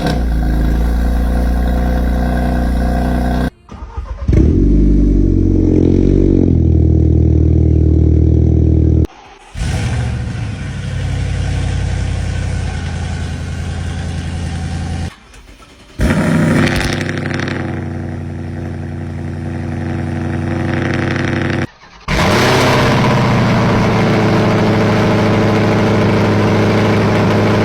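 Car engines running and revving in a string of separate clips, each about four to six seconds long, with abrupt cuts between them; in the second clip the engine's pitch sweeps up and down.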